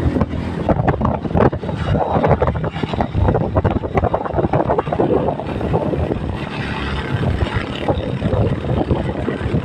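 Vehicle engine running on the road, with wind buffeting the microphone.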